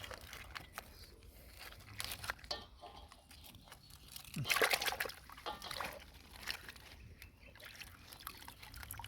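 Pond water sloshing and splashing in irregular bursts, loudest about four and a half seconds in.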